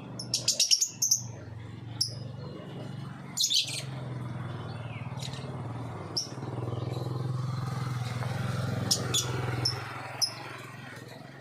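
Lovebirds chirping: short, high chirps in scattered clusters, over a steady low hum.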